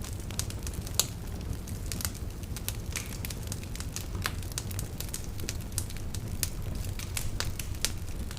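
Wood fire crackling, with frequent irregular sharp pops and one louder pop about a second in, over a steady low rumble.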